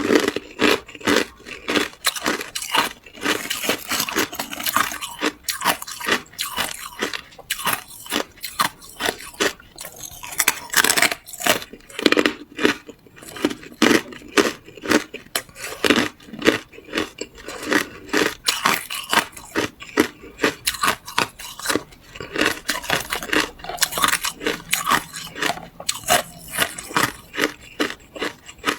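Hard clear ice being bitten and chewed: a steady run of sharp, brittle crunches, several a second.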